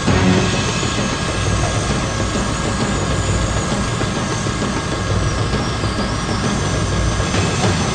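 Remote-control model helicopter running, a steady rotor and motor noise with a high whine that wavers up and down in pitch as the throttle changes.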